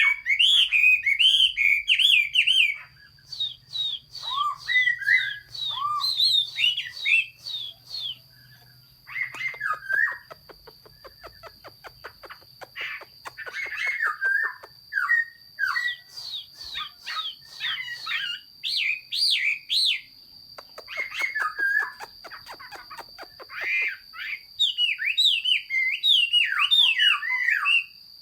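Hwamei (Chinese melodious laughingthrush) singing a long, varied song of loud whistled phrases mixed with rapid chattering rattles, broken by short pauses. A faint steady high-pitched tone runs behind it.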